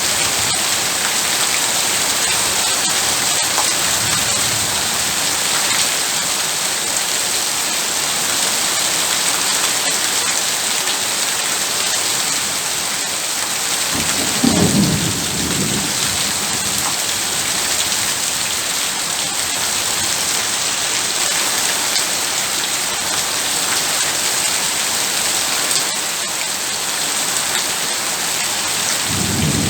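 Heavy rain falling steadily, with low rumbles of thunder: a faint one about four seconds in, a clearer one about halfway through, and another starting near the end.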